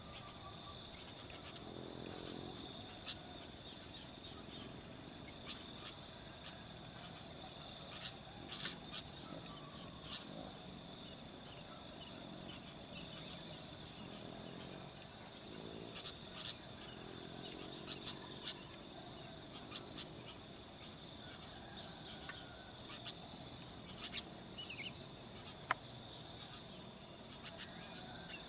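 Insect chorus: a steady high-pitched whine under a pulsing trill that comes and goes in bouts of a few seconds, with a few short bird notes and a single click about 26 seconds in.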